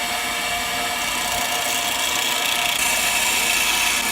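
Electric drill running steadily at speed, its motor giving a whining, even noise, a little louder in the last second or so.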